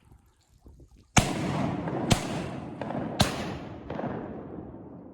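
Three shotgun shots about a second apart at ducks, each rolling off in a long echo. Two fainter reports fall between and after them.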